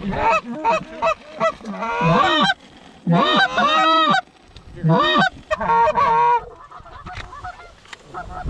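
Canada goose honks in quick, overlapping series, coming in three loud bursts with short gaps between, then falling away over the last couple of seconds.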